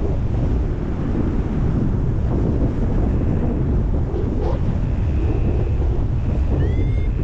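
Airflow from a paraglider flight buffeting the microphone, heard as a steady low rush of wind. Faint high beeps and a short rising chirp come in over it in the second half.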